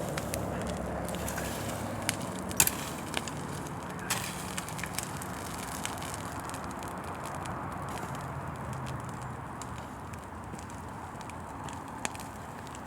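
Large bonfire burning with a steady rush, broken by a few sharp pops and crackles, the loudest about two and a half seconds in.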